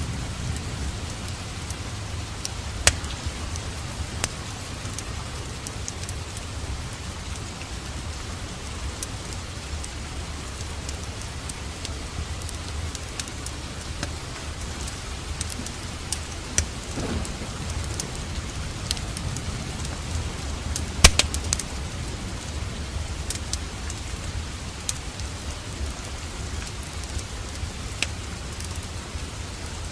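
Steady rain with the scattered sharp crackles and pops of a wood fire, including one louder cluster of pops about two-thirds of the way through.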